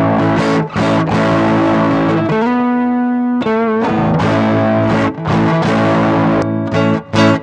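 Electric guitar played through a Behringer GDI21 preamp pedal and a Cuvave ODrive Blues overdrive, giving a crunchy, tube-amp-like overdriven tone. Chords are strummed and let ring, with a held note sung out with vibrato about two and a half seconds in.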